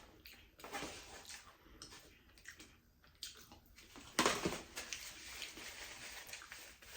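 Faint eating noises: mouth sounds with a few light clicks and rustles, the loudest cluster about four seconds in.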